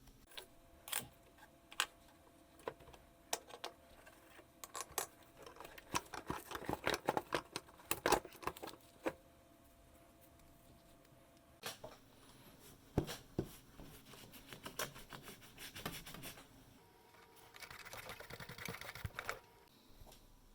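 Small parts and hand tools being handled: scattered sharp clicks and taps, a dense run of rapid clicking and light rattling in the middle, and a short scraping, rustling stretch near the end.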